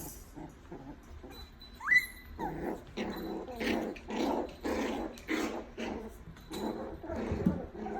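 Puppies growling in play, a run of short growls about two a second, after a single short high cry rising in pitch about two seconds in, the loudest sound.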